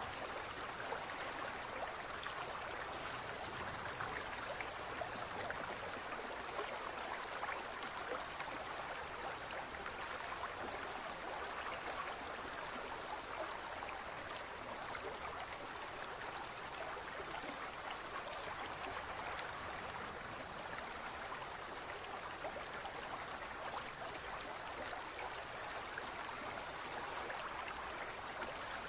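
Flowing water trickling steadily, like a small stream.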